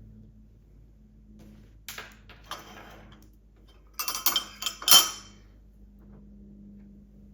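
Dishes and cutlery clinking at a table: a couple of light knocks about two seconds in, then a quick run of clinks about four seconds in, the last one the loudest.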